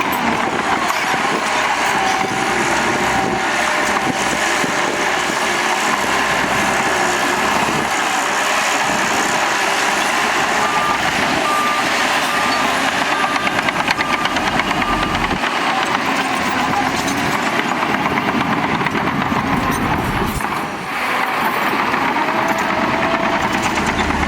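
Heavy earthmoving machinery running steadily under load, with a reversing alarm beeping about twice a second for a few seconds midway.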